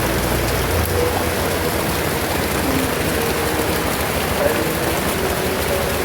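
Heavy rain falling steadily: a dense, even hiss of drops with no break.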